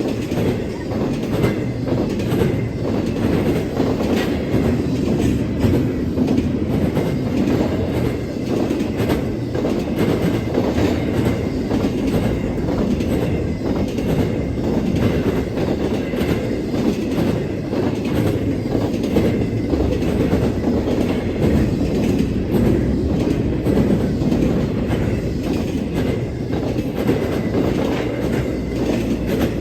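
CSX freight train rolling past, its steel wheels clacking over the rail joints over a steady rumble.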